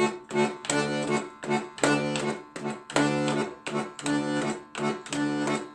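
Chords played on a sustained-tone instrument in a steady three-beat waltz rhythm, about two chords a second.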